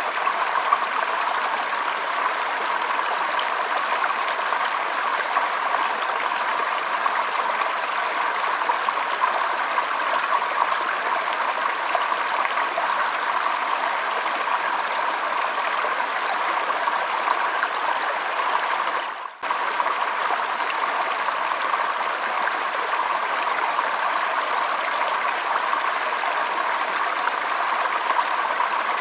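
Shallow stream flowing and trickling steadily, with a brief dip in the sound about two-thirds of the way through.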